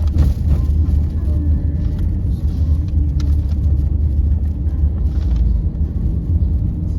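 Steady, heavy rumble inside a car's cabin as it drives over a rough, bumpy road, with a few short knocks from the jolts.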